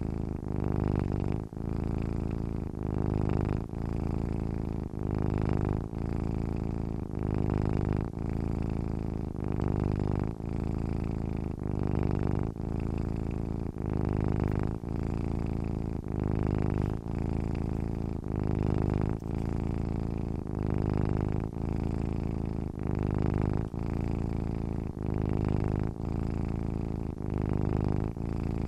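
Domestic cat purring while asleep: a steady low buzz that swells and breaks in time with its breathing, about one breath cycle every two seconds, with a brief pause between breathing in and breathing out.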